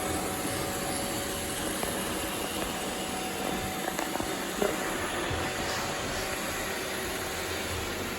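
Robot vacuum cleaners running steadily, a continuous whir of their motors and brushes as they sweep up confetti, with a small click about four and a half seconds in.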